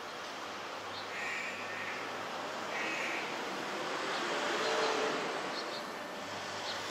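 Two short, harsh bird calls, a little over a second apart, over a steady background hum of city noise that swells briefly about two thirds of the way through.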